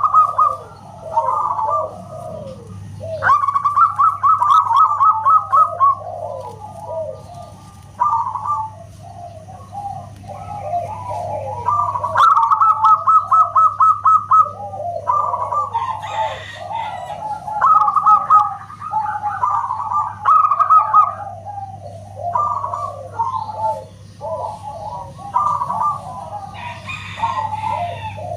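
Zebra doves (perkutut) cooing: quick trains of staccato notes followed by lower rolling coos, repeated phrase after phrase with calls overlapping. A steady low hum runs underneath.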